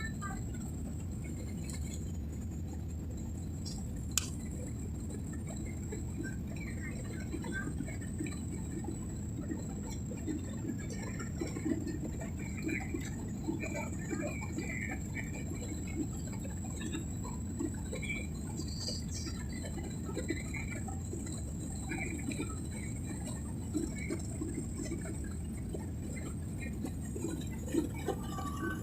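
Airliner cabin noise in flight: a steady low rush, with faint scattered sounds above it and one sharp click about four seconds in.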